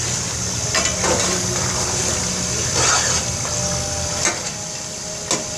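Mutton and masala frying in an aluminium pot with a steady sizzle, while a steel spatula stirs through it, scraping and knocking against the pot a few times.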